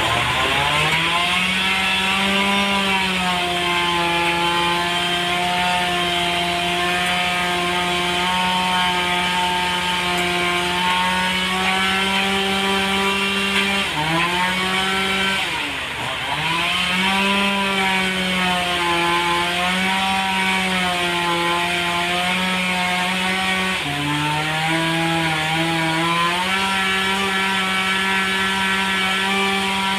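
A sawmill blade cuts through a large trembesi (rain tree) log with a steady pitched machine note. Its pitch sags and comes back up a few times as the saw loads in the cut.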